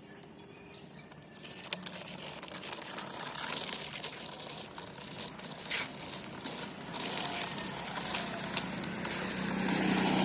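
A toy mountain bicycle pushed along a surface by hand: a rolling, scraping noise with scattered small clicks, growing gradually louder.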